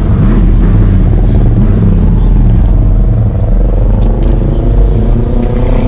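A truck engine running loud and close, its pitch rising slowly in the second half.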